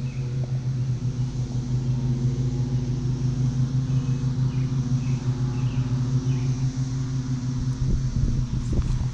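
Steady low motor hum with a few evenly spaced overtones, unchanging throughout. A few low thumps come near the end.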